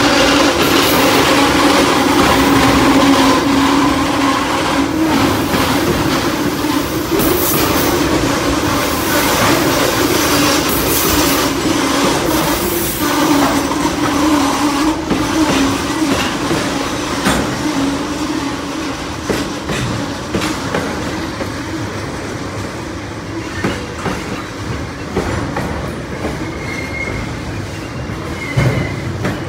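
Freight train rolling past, the wagons rumbling with sharp clacks from the wheels over the rail joints; the sound eases gradually as it goes by.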